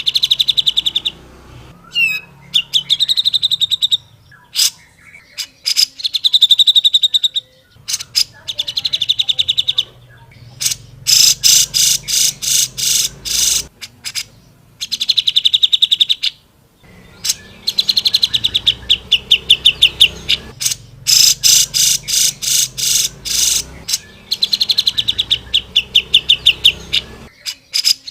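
Cucak jenggot (grey-cheeked bulbul) singing loudly and continuously: fast rattling trills of rapidly repeated notes lasting a second or two, broken up by sharp single calls.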